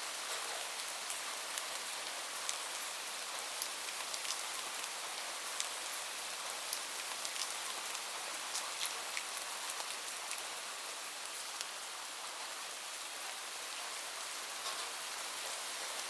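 Steady rain falling, a dense hiss with many individual drops ticking sharply on a nearby surface.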